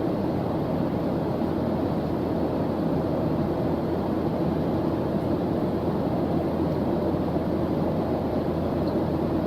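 Steady background noise track with its weight in the low end, even and unchanging.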